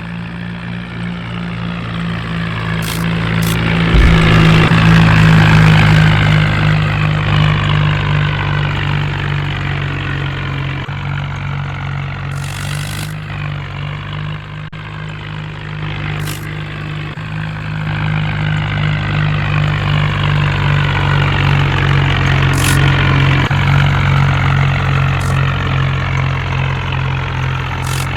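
Vehicle engine sound effect running steadily with a low hum, swelling louder twice, with a few short clicks.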